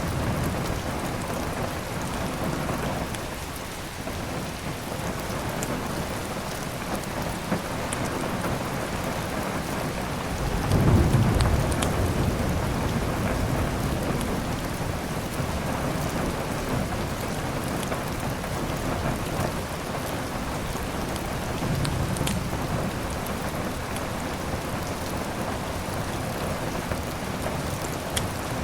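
Steady heavy rain with a low roll of thunder swelling about ten seconds in, and scattered faint crackles of a wood fire.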